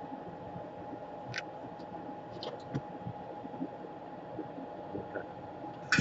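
A few light clicks and taps from handling small parts and tools at a repair bench, with a louder cluster of clicks near the end, over a steady faint hum.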